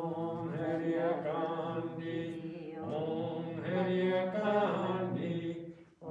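Voices chanting a devotional Sanskrit mantra in two long, drawn-out sung phrases, with a short break about three seconds in.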